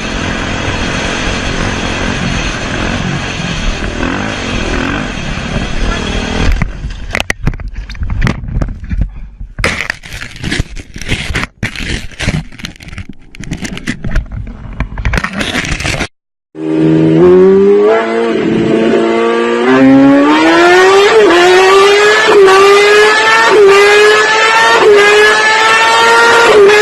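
Motorcycle engines at high revs. First comes rough running noise, then a choppy stretch full of sharp knocks and scraping, then a cut. After the cut, one engine accelerates hard, its pitch climbing and dipping at each of several gear changes.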